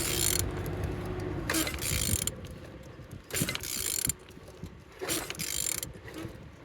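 An FL10 truck diesel engine being turned over by hand with a ratchet wrench: four clicking, grinding strokes, each about a second and a half after the last. The engine turns freely.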